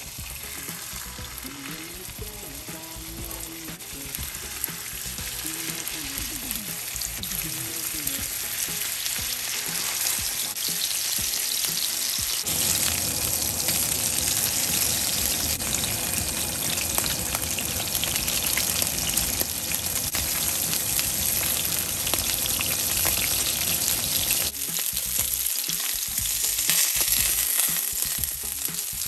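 Salmon fillets sizzling as they fry in hot oil in a nonstick frying pan, a steady crackling sizzle that grows louder over the first ten seconds or so.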